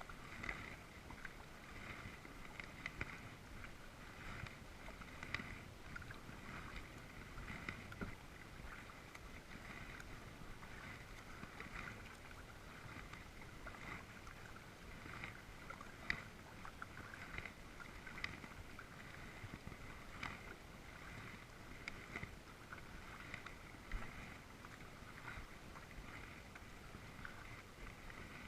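Kayak paddling on calm water: faint, steady splashing and dripping from the paddle blades, broken by a few sharp knocks.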